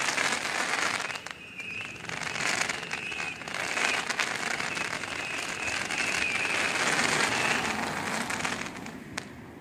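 Fireworks going off in a continuous crackling, popping barrage with a steady fizzing hiss. It dies down about nine seconds in, with one last sharp crack.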